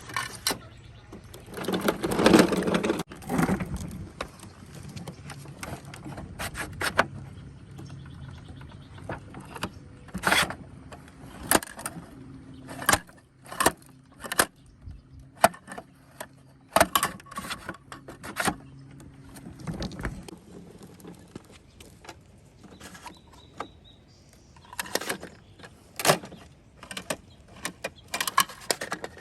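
Toy garbage trucks handled and moved about: scattered sharp plastic clicks and knocks, with a low steady hum for several seconds in the middle.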